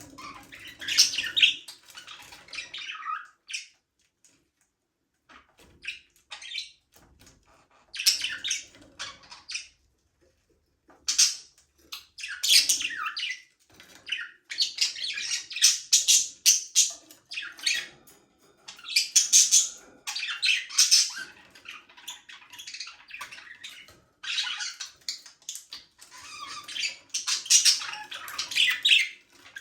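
Budgerigars chirping and chattering in bursts of busy, high warbling with short pauses between.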